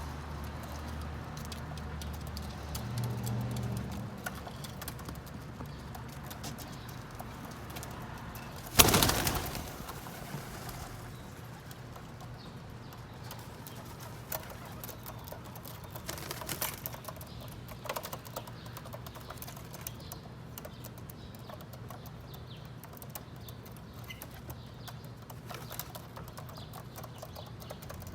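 Pigeons feeding on sunflower seeds, with low cooing and scattered small clicks of pecking and footsteps. A sudden loud burst, the loudest sound, comes about nine seconds in and fades within a second.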